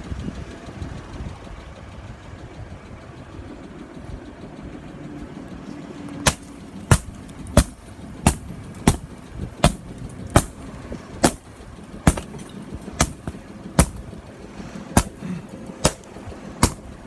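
2004 Passat V6 engine idling. From about six seconds in, a steady series of sharp, ringing strikes on the windshield, roughly one every two-thirds of a second, as the glass is knocked out.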